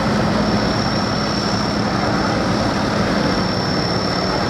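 Tractor engines running steadily, with a thin steady high-pitched whine above them.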